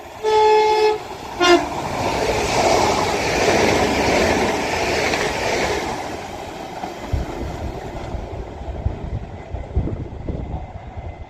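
TransPennine Express Class 397 electric multiple unit sounding its horn, a longer blast and then a short toot, before passing through the station at speed. The rush of its passing is loudest a few seconds in and dies away to a low rumble after about six seconds.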